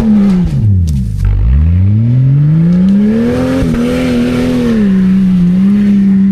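Old Jeep Cherokee engine revving hard under load off-road: the revs drop away about a second in, climb back up, then hold high and steady, with a few short knocks as the revs fall.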